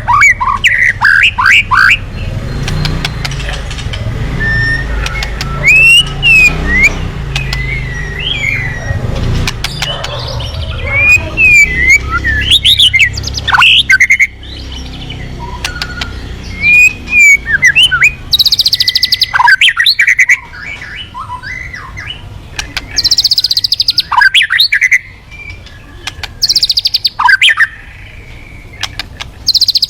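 Murai batu (white-rumped shama) singing continuously and loudly: a varied song of quick, sweeping whistled phrases, broken in the second half by several harsh, buzzy rattles.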